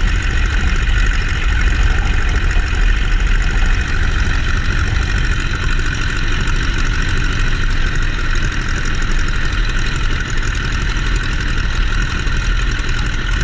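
Boeing-Stearman Model 75 biplane's radial engine and propeller running steadily.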